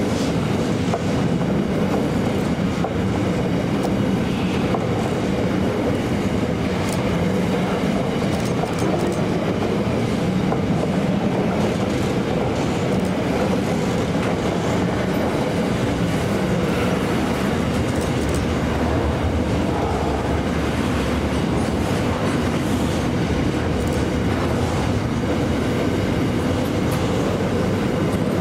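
Train running along the track, a steady, even noise that holds level throughout.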